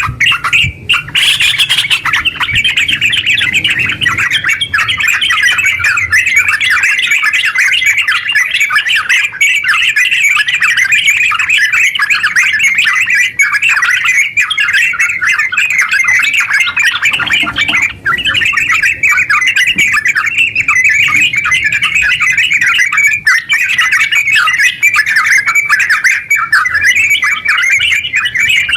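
Yellow-vented bulbul (terucuk) singing in a long, unbroken run of rapid chattering notes: the fast 'ngeropel' song of a bird in full voice, used as a lure and masteran recording.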